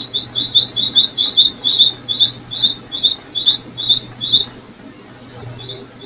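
A bird's call: a fast, even series of high double chirps, about four a second, stopping a little after four seconds, with fainter chirps near the end.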